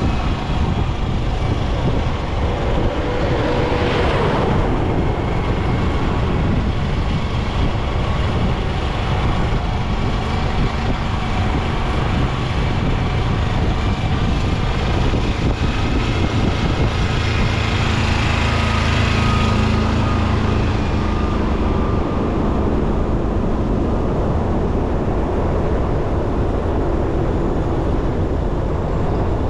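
Motorcycle engine running steadily on the road, with wind buffeting the microphone and tyre rumble. The engine hum grows stronger for a few seconds past the middle, then eases.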